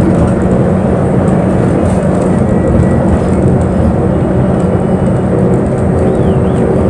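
Inside a moving bus: steady engine drone and road noise.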